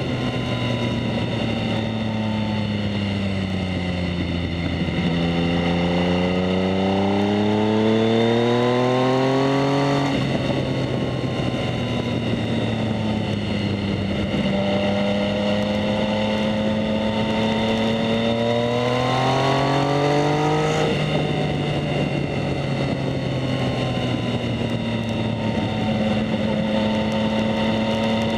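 2019 Yamaha MT-09's three-cylinder engine through a Two Brothers S1R full exhaust system, heard from the rider's position under way. The engine note sinks, then climbs steadily twice, each climb ending in a sudden drop in pitch before the revs wind down again.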